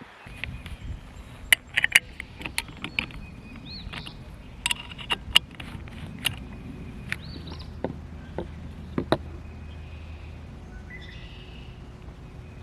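Outdoor yard sounds: a steady low wind rumble on the microphone, scattered sharp clicks and taps, and a few short bird chirps, one about four seconds in and another about seven seconds in.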